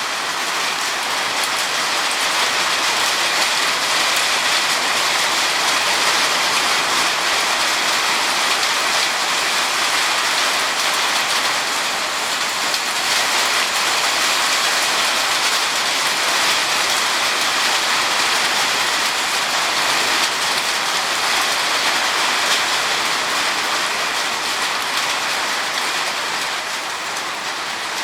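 Steady rain falling, an even hiss with the fine patter of drops on surfaces.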